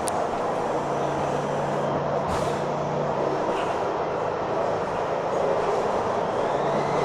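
Metrorail train running, a steady rumble with a low hum, wheezing and rattling, with a sharp knock just after the start and another about two seconds in.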